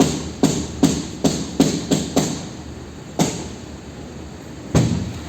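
A series of sharp knocks, about two to three a second for the first two seconds or so, then two more single knocks spaced well apart.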